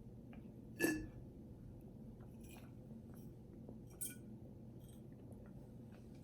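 Faint chewing and wet mouth sounds of someone eating close to the microphone. There is a brief louder mouth sound about a second in, and small clicks later on.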